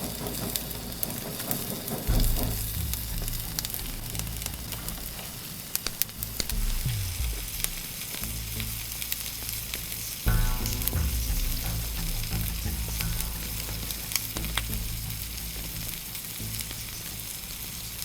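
Food sizzling and frying in a pan, with a steady hiss and scattered crackles, over quiet background music.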